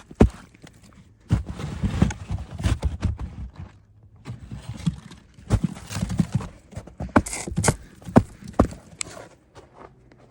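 Irregular crunching and dull thumps of packed snow being worked: shovel strokes, blocks being set and footsteps in snow, with a few sharper knocks in the second half.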